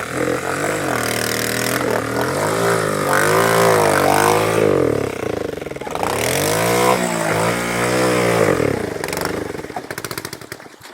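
Small off-road engine revved up and down over and over, its pitch swinging, then sputtering in slowing pulses and dying near the end. The riders take the stall for water in the spark plug.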